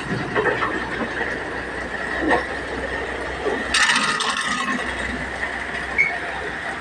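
Road-works noise: a steady engine hum with scattered metallic clinks and rattles, and a louder, harsher burst about four seconds in.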